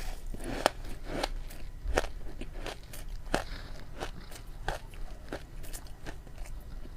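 Ice being bitten and crunched close to the microphone, with sharp cracks coming about every two-thirds of a second as it is chewed.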